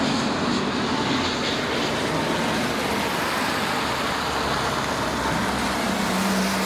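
Steady engine roar with a low hum that strengthens near the end.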